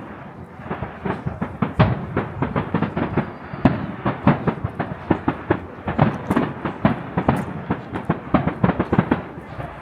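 Fireworks display: a rapid, irregular string of shell bursts and crackling reports, several a second.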